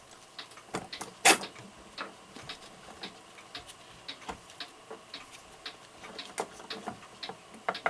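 Small sharp clicks and taps of metal clock-movement parts being handled on the bench, at uneven spacing, with one louder clack about a second in.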